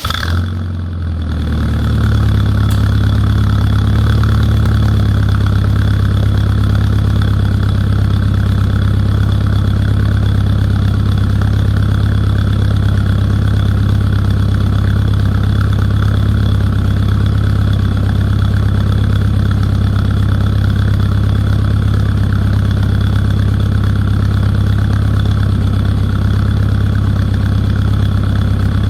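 Rover Mini's four-cylinder A-series engine catching just at the start and settling within a couple of seconds into a steady idle, through a Kakimoto aftermarket muffler with no catalytic converter. The exhaust note is very loud.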